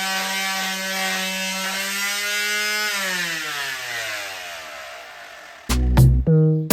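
Electric power sander running steadily, then switched off about three seconds in, its motor winding down with a falling pitch until it stops. Music with a heavy beat starts near the end.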